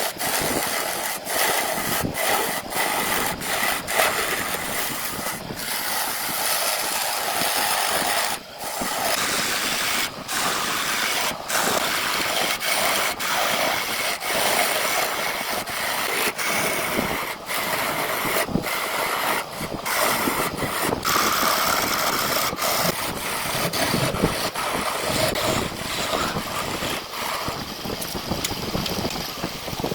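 Woodworking tool noise: a dense scraping, hissing sound of wood being worked, broken by abrupt cuts every second or two.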